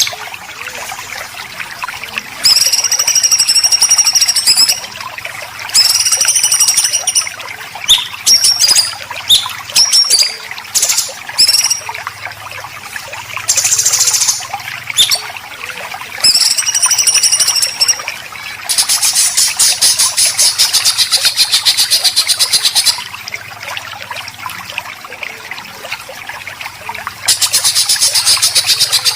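Songbird 'besetan' calls: repeated high whistled phrases about a second or two long, short quick notes, and long harsh rapid rattling trills, two of them in the second half. A steady trickle of running water lies under the song.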